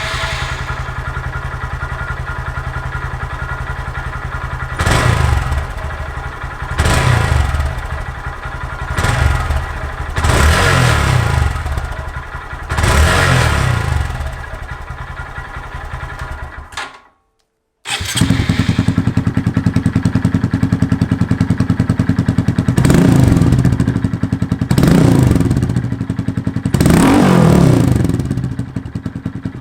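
Honda MSX125's single-cylinder four-stroke engine idling through a Maximum S-1 short aftermarket full exhaust, blipped about eight times with the pitch rising and falling on each rev. The sound drops out for about a second around the middle.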